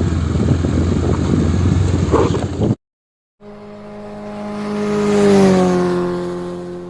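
Steady rumbling engine and road noise that cuts off abruptly. After a short gap a motor vehicle passes by: its engine note grows louder, then fades away with its pitch falling as it goes past.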